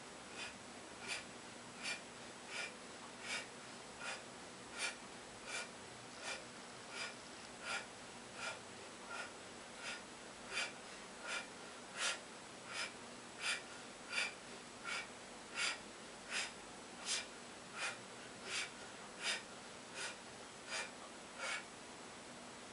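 A man breathing out sharply in a steady rhythm, one breath with each crunch, about thirty in all at a little under one and a half per second.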